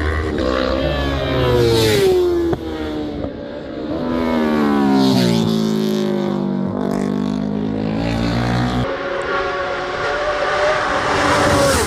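Racing motorcycles going past at full speed one after another, each engine note high and then falling in pitch as it passes, with several passes overlapping.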